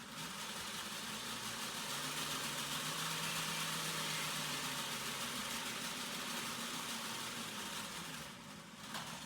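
Motor of an HO scale model locomotive whirring steadily as it runs along the track, with the rattle of its wheels on the rails. The whir drops off briefly near the end, then picks up again.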